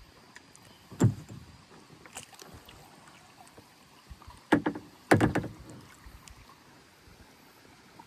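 Kayak paddle strokes: one sudden stroke about a second in, then a quick cluster of strokes between four and a half and five and a half seconds in.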